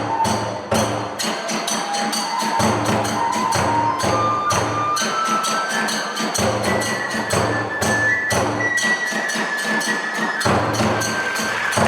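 Kagura hayashi ensemble playing: drum and small hand-cymbal strikes in a steady fast rhythm under a kagura flute melody that climbs step by step in pitch and then holds high. The deep drum beats drop out a little past the middle and come back near the end.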